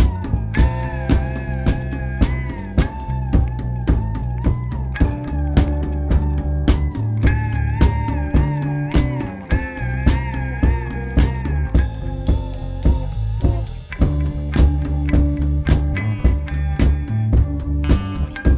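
A band jamming: a drum kit keeping a steady beat with bass drum and rimshot hits, a bass line, and a guitar holding long wavering lead notes. Cymbal crashes ring out near the start and again about twelve seconds in.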